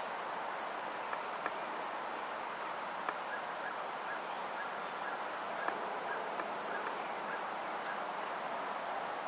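Steady outdoor hiss with a bird calling in a long run of short, evenly spaced notes, about two and a half a second, starting a couple of seconds in and stopping near the end; a few faint clicks.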